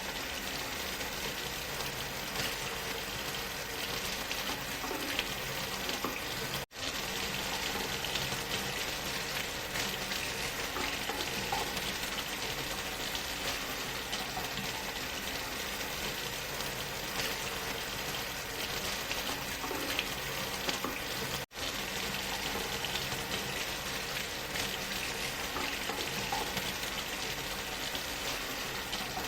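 Steady rushing of a waterfall layered with white noise, an even hiss with no changes. It cuts out for a split second twice, about seven and twenty-one seconds in.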